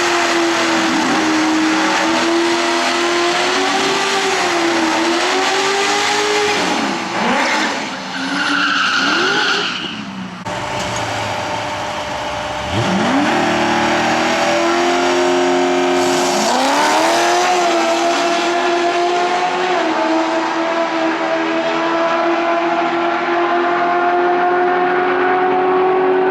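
Supercharged C6 Corvette V8 held at high, steady revs. About seven seconds in its revs fall away and the sound dips. About thirteen seconds in the revs climb sharply and hold high again.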